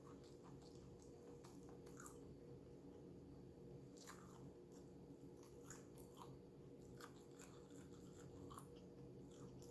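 Faint, close-miked chewing of shrimp and sator beans, with soft irregular crunches and mouth clicks.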